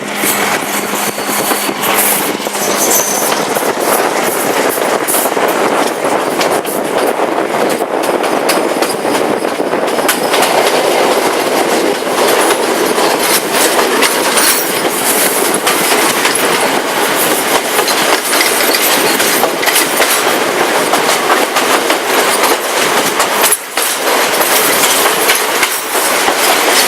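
Passenger train carriage running along the line: a steady loud rumble and rattle, with the wheels clicking over the rail joints.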